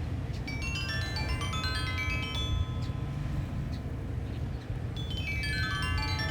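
Sanukite stone xylophone, tuned to A=432 Hz, playing ringing pentatonic notes: a quick rising run about half a second in, then a falling run near the end. Underneath is a steady low rumble of wind on the microphone.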